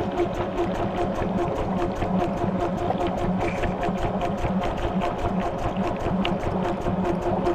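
Maytag washing machine running, heard from inside the tub: a steady mechanical hum that pulses evenly several times a second.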